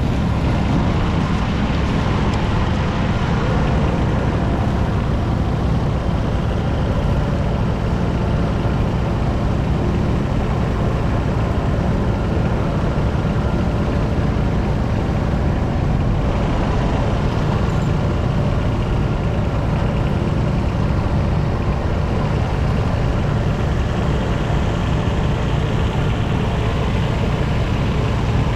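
Yanmar KE 140 tractor's 0.7-litre three-cylinder diesel engine running steadily under load while pulling a single-furrow plough.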